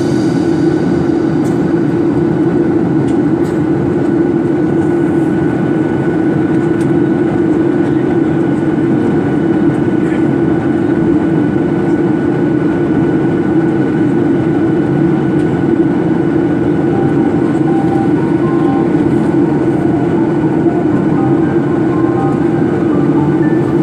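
Steady jet airliner cabin noise, the engines and rushing airflow heard from inside the cabin, with a faint steady whine running through it.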